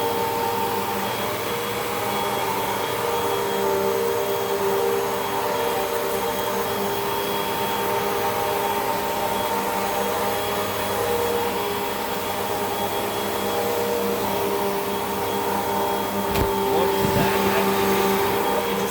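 Hoover WindTunnel 2 Rewind upright vacuum cleaner running steadily, a motor whine with several held tones over a rushing of air. A couple of low bumps come near the end.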